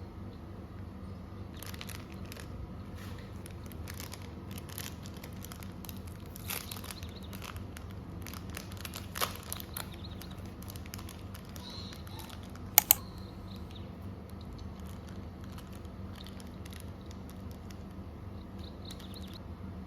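Packaging being handled: plastic or paper crinkling and rustling in scattered short bursts, with a sharp double click about two-thirds of the way through, over a steady low hum.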